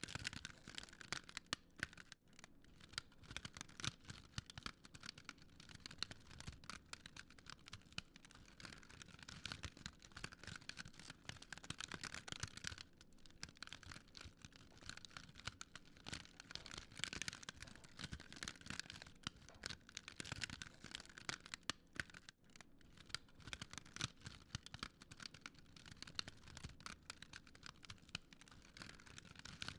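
Wood fire crackling, with a dense, irregular stream of small sharp crackles over a soft steady hiss.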